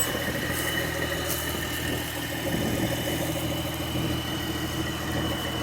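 Diesel engine of a 1994 International 8400 semi tractor, a Cummins M11 inline-six, idling steadily.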